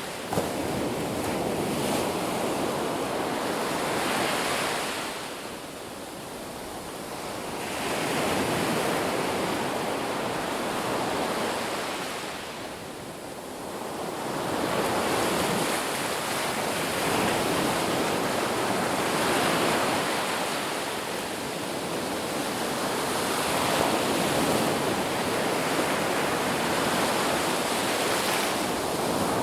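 Ocean surf breaking and washing on a beach as a continuous rushing noise that swells and ebbs. It dips into two quieter lulls in the first half, then becomes a steadier wash.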